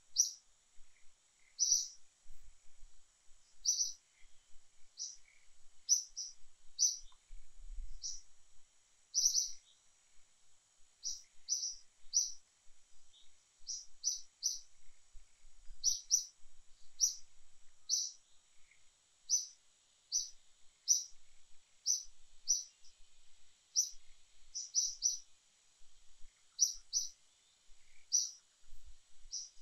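A bird chirping over and over: short, high, sharp notes about once or twice a second, sometimes in quick pairs, over a faint steady high hiss.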